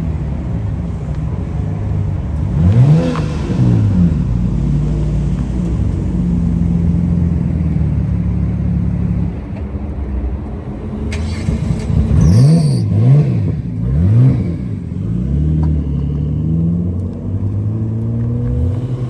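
Car engines idling with a steady low note. They are revved briefly once about three seconds in, then blipped up and down several times in quick succession about two-thirds of the way through.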